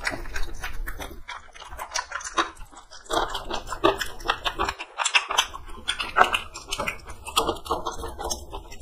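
Close-up, wet chewing and lip-smacking of people eating rice and chicken curry by hand: a quick run of smacking mouth clicks.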